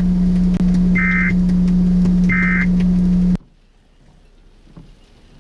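Weather radio broadcast audio: a loud steady low hum with three short high beeps about 1.3 seconds apart, cutting off suddenly about three and a half seconds in. After it comes faint background noise with a few small ticks.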